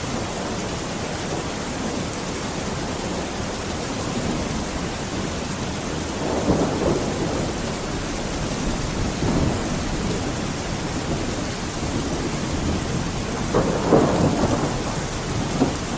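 Steady rain falling during a thunderstorm, with low thunder rumbles swelling up three times over the rain.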